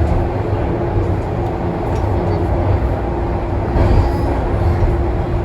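Toronto subway train running between stations, heard from inside the car: a steady low rumble of wheels on track with a constant motor hum.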